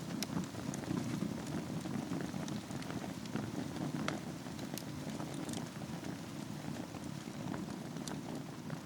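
Wood fire burning in a fireplace over embers: a steady low rumble of flames with scattered sharp crackles and pops.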